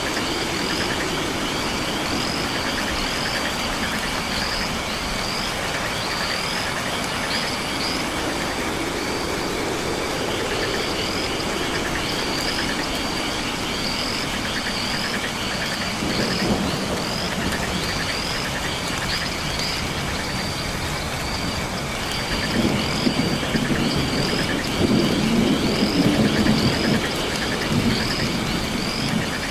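Nocturnal rainforest ambience: a frog and insect chorus over a steady wash of noise, with short upswept chirps repeating about once or twice a second above a dense trilling. A low rumble swells about halfway through and again, louder, in the last few seconds.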